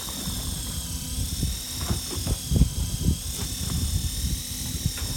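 Machinery on a fishing boat running with a steady high whine over a low rumble. A few knocks come around the middle.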